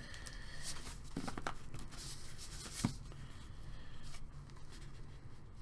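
Hands handling trading-card packs and cards: light rustling and paper noise with a few short clicks and taps, the sharpest a little under three seconds in.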